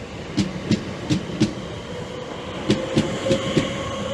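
Class 465 Networker electric multiple unit pulling away from the platform, its wheels clicking over rail joints in regular groups as the bogies pass. A motor whine rises slightly about halfway through as it gathers speed.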